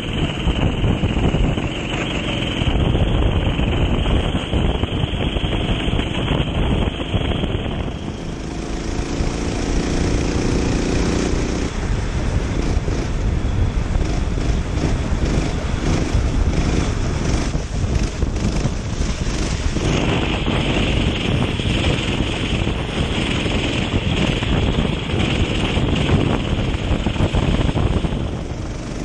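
Racing kart engine running under way on a wet track, buried in heavy wind noise on the onboard microphone; the engine note shifts several times as the kart goes through the lap.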